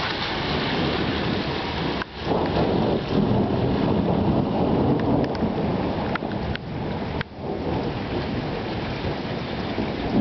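Steady heavy rain with rolling thunder during a thunderstorm; the rumble swells about two seconds in and stays strong for several seconds. The sound drops out abruptly twice, and a few sharp raindrop ticks come near the middle.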